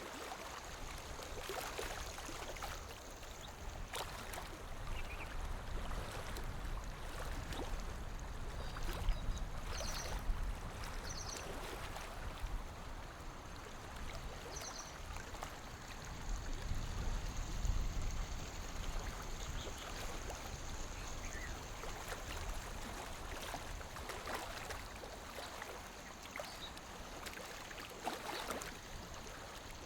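Small waves lapping at a lake shore: a continuous wash of water with irregular little splashes and slaps.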